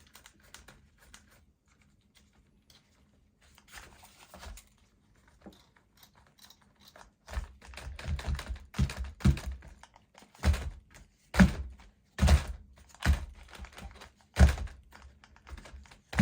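Handling of an RC truck while its shocks are adjusted. Faint light clicks at first, then from about halfway a run of sharp knocks and thunks, roughly one a second.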